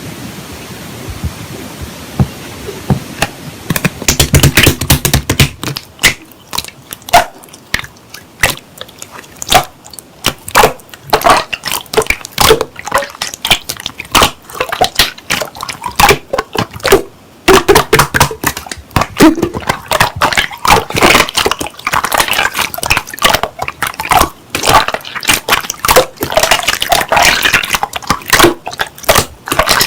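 Slime being squeezed and kneaded by hand: dense, irregular wet clicks, pops and squishes, which begin in earnest about four seconds in.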